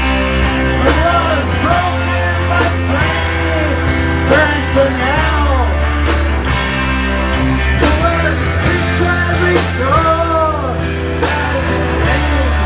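Rock music: a band playing with a sung vocal melody over guitar and a steady bass.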